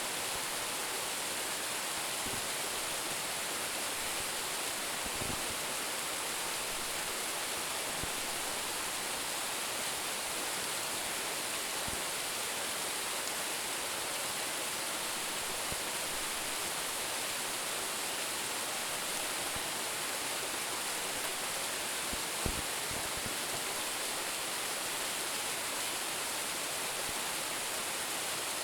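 Roumon Falls, a waterfall of about 10 m, pouring in a steady, even rush of falling water. A few faint low thumps are heard, the largest about 22 seconds in.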